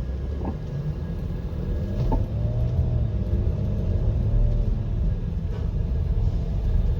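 Mercedes-Benz GL 350 CDI on the move: a steady low road and drivetrain rumble that slowly grows louder as the SUV picks up speed, with no knocks from the newly replaced suspension bushings.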